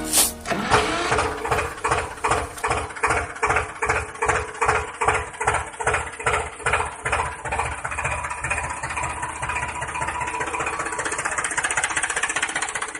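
Homemade toy tractor seed spreader's small motor-driven mechanism switched on with a click, then running with an even rhythmic chug about two to three times a second that smooths into a steady run.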